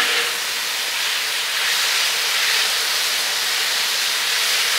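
Steady sizzle of sliced steak, bell peppers and onions frying on a hot Blackstone flat-top griddle.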